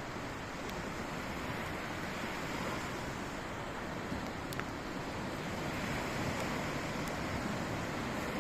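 Sea surf washing steadily onto the shore, swelling a little in the last few seconds, with a few faint sharp clicks.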